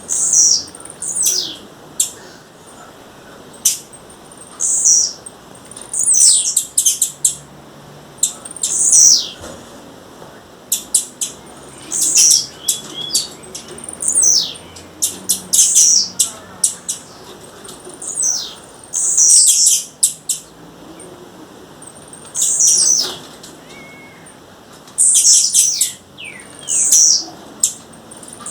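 Blue-black grassquit (tiziu) calling: short, high, downward-sliding calls repeated every second or two, mixed with sharp clicks.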